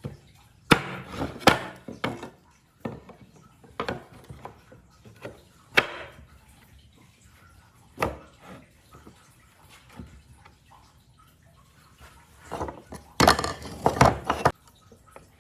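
Wood being worked by hand: irregular sharp knocks and taps, then a quick run of denser scraping or rubbing strokes near the end.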